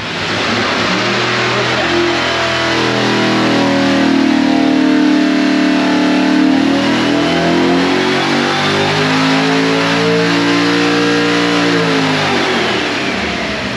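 Small-block Chevy V8 at full throttle on an engine dyno, making a power pull: its note climbs steadily as revs rise to nearly 7,000 rpm. Near the end the throttle is closed and the revs fall away.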